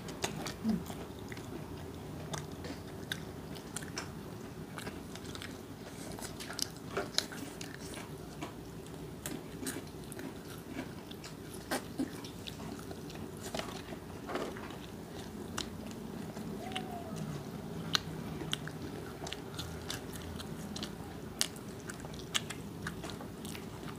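People chewing and biting into crispy fried chicken: irregular crunches, crackles and mouth clicks over a steady low background hum.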